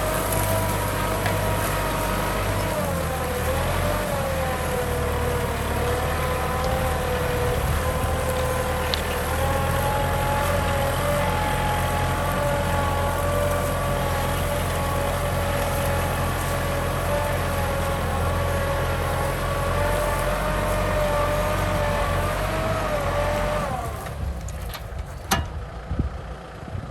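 Kubota M6040 tractor's diesel engine running steadily under load while plowing, its pitch wavering slightly. Near the end the engine sound drops away sharply.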